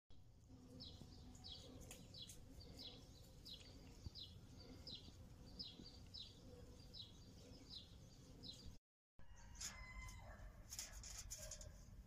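A small bird's faint, high chirps, repeated evenly about twice a second. Each chirp is a short downward sweep. The chirping stops at a sudden break about nine seconds in.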